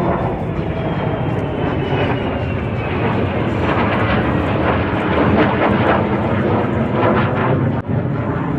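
Military jet aircraft passing low, a loud engine roar with a high whine that falls in pitch over the first few seconds.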